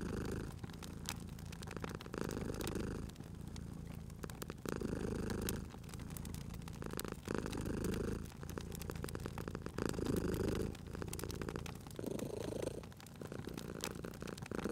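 Domestic cat purring, swelling louder in a slow rhythm about every two and a half seconds, with a wood fire crackling alongside in many small sharp clicks.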